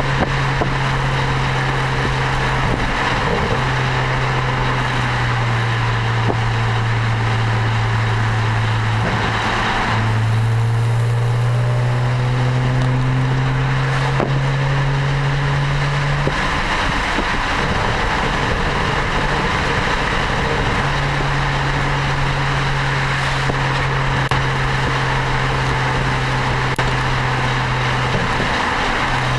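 BMW 335i's turbocharged inline-six through an Eisenmann Race exhaust, cruising: a steady low exhaust drone over road and wind noise. The pitch drops and then slowly climbs about a third of the way in, and the drone falls away for a few seconds past the middle before it returns.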